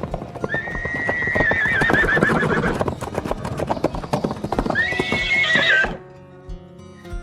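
A horse whinnying twice, each call rising and then quavering down, over fast hoof clip-clop. Both stop about six seconds in, giving way to quiet music.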